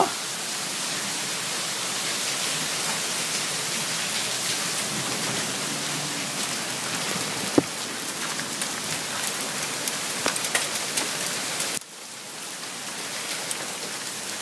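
Hail and rain coming down: a steady hiss with scattered sharp ticks of hailstones striking. The sound drops suddenly about twelve seconds in, then slowly builds again.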